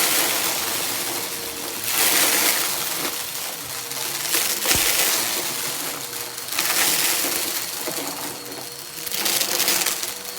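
Vacuum cleaner with an overflowing dust bin sucking up crunchy debris: a steady motor hum under crackling, crunching surges that swell every couple of seconds, with a brief knock about halfway through.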